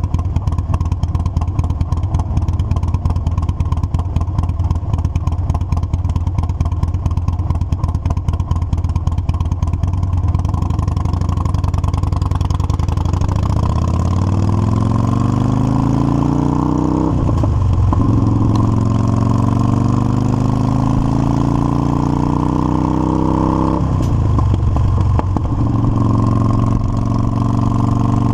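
Motorcycle engine running steadily at low revs. About a third of the way in it pulls away with rising pitch, and it shifts up twice, each shift a brief dip followed by a lower, steady pitch.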